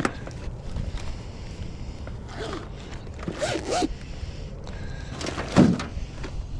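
Fishing gear being handled in a small boat, a fish stringer just pulled out: rustling and scattered clicks, with one louder knock about five and a half seconds in.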